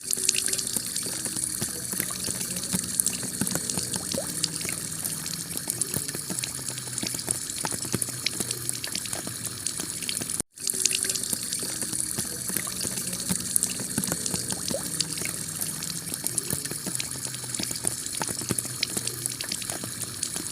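Heavy rain on a clay-tiled roof: a steady hiss dense with sharp drop hits. It cuts out for a split second about halfway through, where the recording loops.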